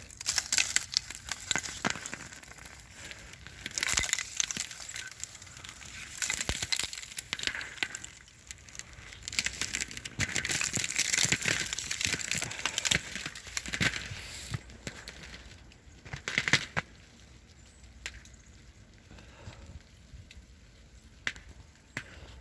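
Ice crust crunching and crackling underfoot, a dense run of sharp crackles that thins to a few separate cracks about fifteen seconds in, then goes much quieter.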